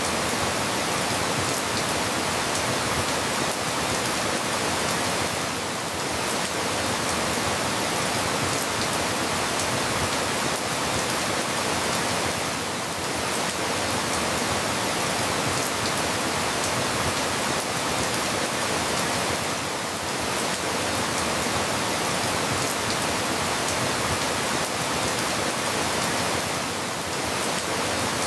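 Steady rain, an even hiss dotted with faint ticks of drops, with a slight dip in level about every seven seconds.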